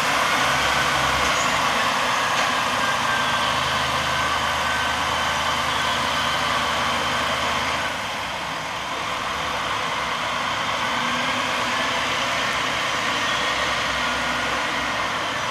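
KiHa 47 diesel railcar's engine running hard as the railcar pulls away, a steady loud diesel sound that eases off slightly about eight seconds in.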